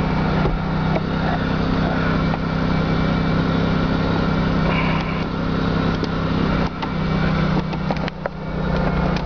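GM 3800 Series II V6 of a 2001 Pontiac Bonneville idling steadily, with a few light clicks about two-thirds of the way through.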